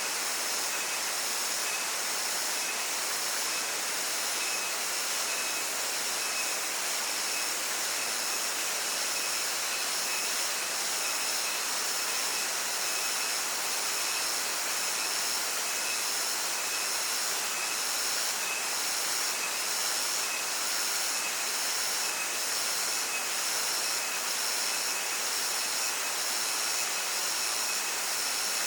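Steady rush of a stream and waterfall, with a steady high-pitched drone of insects over it.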